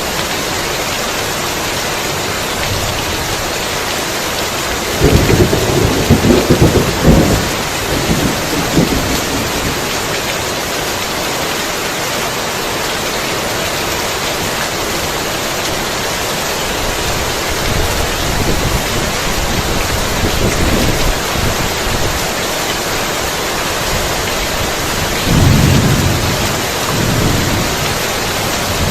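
Heavy steady rain with thunder: a loud, crackling clap of thunder about five seconds in that rolls for a few seconds, softer rumbles in the middle, and another roll of thunder near the end.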